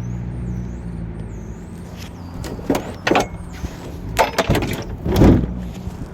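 A low, steady engine hum, like a vehicle idling nearby, with birds chirping for the first second and a half and several sharp knocks in the second half, the loudest near the end.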